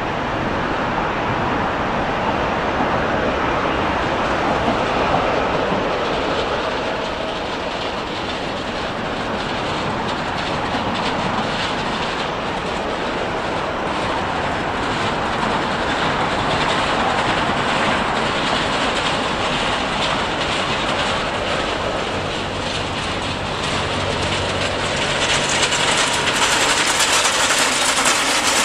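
A train running past on the line, its wheels clattering over the rail joints over a steady rolling rumble that gets louder near the end.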